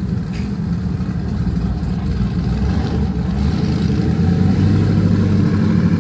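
Car engine running with a deep, steady rumble that grows louder from about halfway through.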